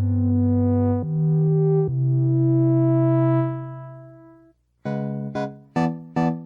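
Modal Argon 8M wavetable synthesizer playing a sustained patch: held notes change twice, then fade out about four and a half seconds in. After a brief gap, a new patch of short plucked notes starts, repeating about twice a second, each note dying away quickly.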